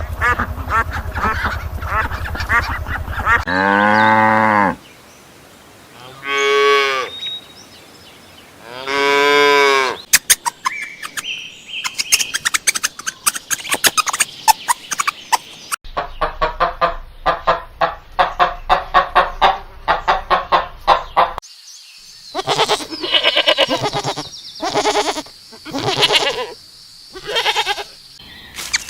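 A string of farm animal calls. Cattle moo in long, arching calls around 4, 6.5 and 9 seconds in, followed later by rapid rhythmic calls and a run of honking bird calls.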